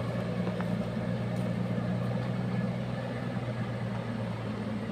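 Diesel truck engine idling steadily with an even, unchanging low hum.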